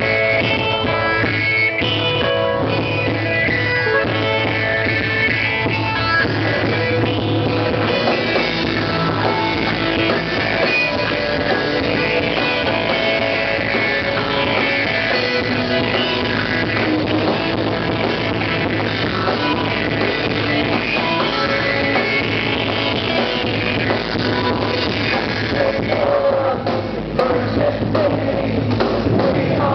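Rock music: a band playing electric guitar over a drum kit and a steady bass line, with some singing.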